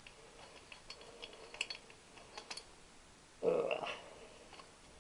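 Scattered light clicks and taps of hand tools on a motorcycle cylinder head as it is unbolted, with a brief louder clatter about three and a half seconds in.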